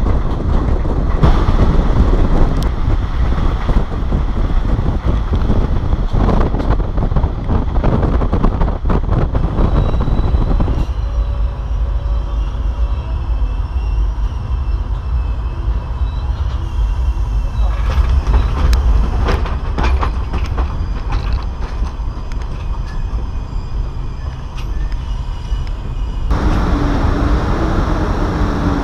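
Passenger train running along the track, heard from a carriage window: wind buffeting the microphone over a steady rumble of the wheels, with a faint high whine in the middle stretch. About 26 seconds in it cuts to a steady hum beside a standing electric locomotive.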